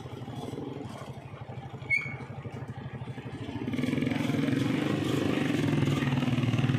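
Motorcycle engine of a tricycle running with a fast pulsing beat, growing louder a little past halfway as it picks up slightly. A short click with a brief high chirp about two seconds in.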